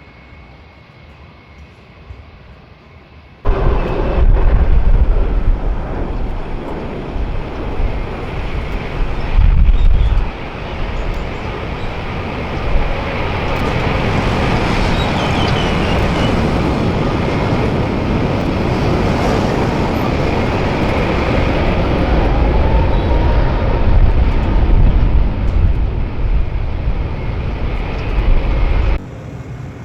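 Jet airliner passing close by: loud, dense jet engine noise with a deep low rumble. It starts abruptly a few seconds in and stops just as abruptly near the end.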